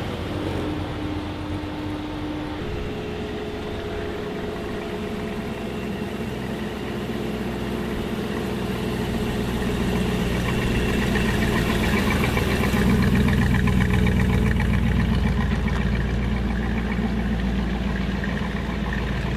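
Car engine running steadily, its pitch stepping up slightly a couple of seconds in, then growing louder toward the middle as it comes close before easing off.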